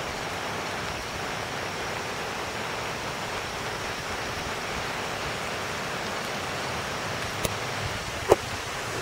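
Steady rushing of water with no break or change, with two sharp knocks near the end, the second louder.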